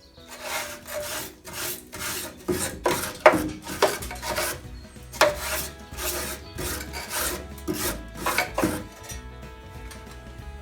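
Repeated rasping scrapes by hand, about one or two strokes a second, working over the rusted chassis rail. The strokes stop near the end, and quiet background music runs underneath.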